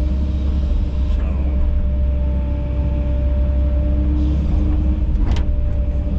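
Kobelco SK210 excavator's diesel engine running steadily under working load, with a steady whine over the rumble. A single sharp clank about five seconds in.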